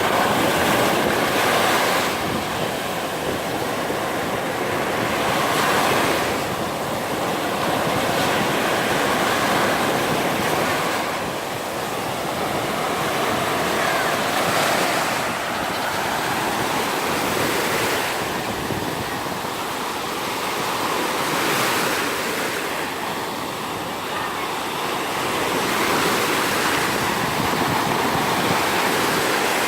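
Sea surf: small waves breaking and washing up a sand beach, swelling and easing every few seconds, with some wind on the microphone.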